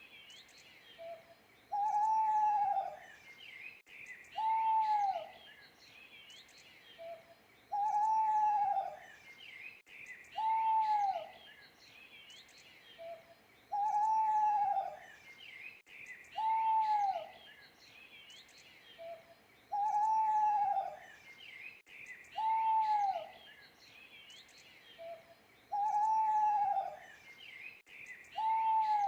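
Owl hooting: one downward-arching hoot about every three seconds, with a short softer note between some of them, over faint high chirping of small birds.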